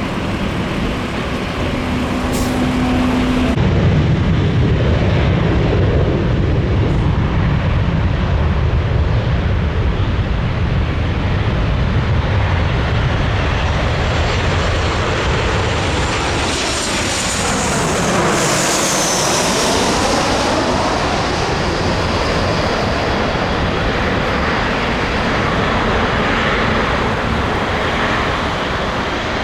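Boeing 777-300ER airliner on landing approach, passing close: a steady jet rumble and whine build up, and the whine drops in pitch as it goes by, a bit past halfway, then settles to a steady rumble. About three and a half seconds in, the sound changes abruptly from another jet's noise.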